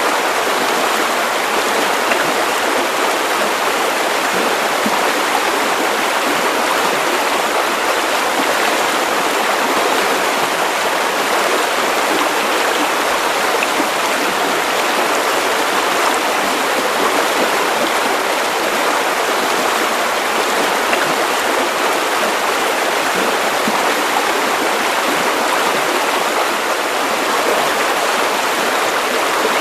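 Steady white noise for sleep: an even, unbroken hiss with little bass, its level unchanging throughout.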